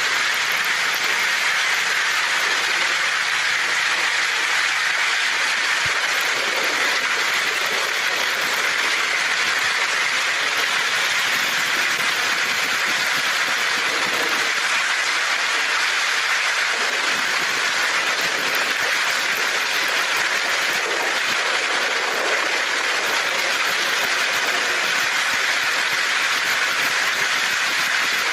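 Heavy rain pouring on a tin roof, a steady even hiss with no break.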